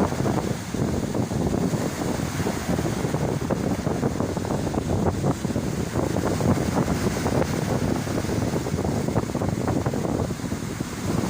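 Strong wind buffeting the microphone in uneven gusts, with surf washing on the beach underneath.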